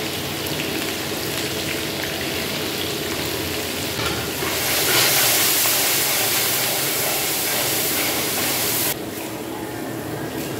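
Onions, green chillies and spices sizzling in hot oil in a large iron kadhai, with a steady frying hiss. The sizzle grows louder about four and a half seconds in as the pan is stirred with a steel spatula, then drops suddenly about nine seconds in.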